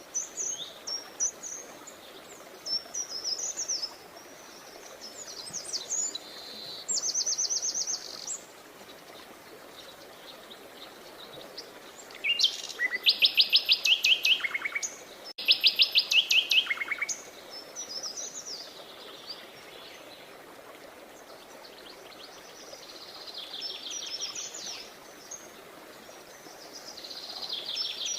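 Several songbirds chirping and whistling over a steady faint hiss. The loudest sounds are two fast trills of rapidly repeated notes about halfway through; shorter trills come near the start and the end.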